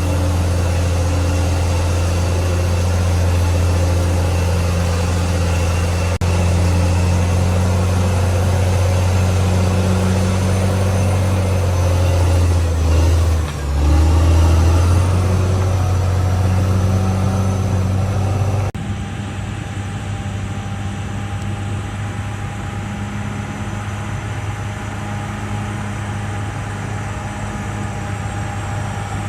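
Diesel engine of a CAT D6R XL crawler bulldozer running steadily at working speed. Its pitch dips briefly about halfway and picks back up. Near two-thirds of the way, the sound changes abruptly to a quieter, duller engine note that holds steady.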